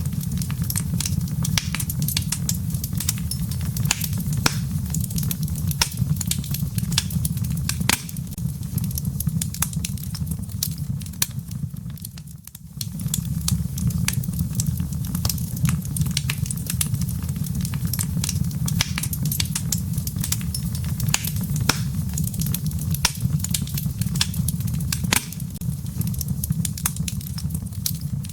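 Wood fire in a fireplace crackling: a dense, irregular stream of sharp pops and snaps from the burning logs and embers over a steady low rumble, with a brief lull about twelve seconds in.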